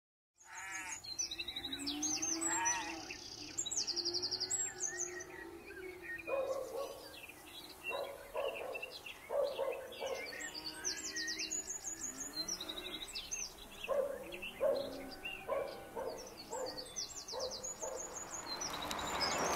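Songbirds chirping and trilling, with short lower animal calls repeating in between. A rushing noise swells near the end.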